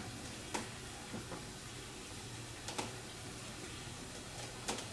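Three or four light, sharp clicks of small hardware being handled, such as screws and washers being fitted, over a low steady room hum.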